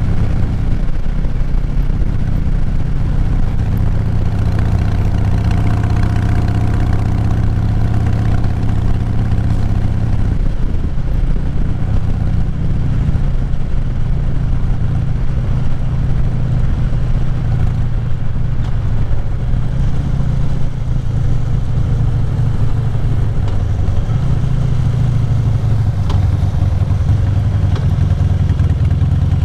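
Motorcycle engine running steadily while riding, its note shifting about ten seconds in.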